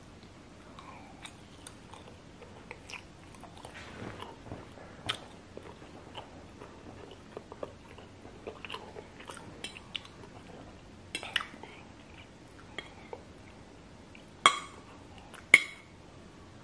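Close-up chewing of a mouthful of noodles: soft, irregular wet mouth clicks and smacks. Near the end come two much louder sharp clicks about a second apart.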